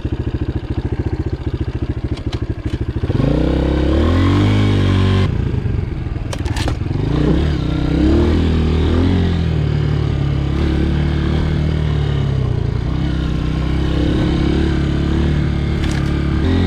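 Dirt bike engine chugging at low revs, then from about three seconds in revving up, its pitch rising and falling repeatedly as the rider accelerates and eases off along the trail.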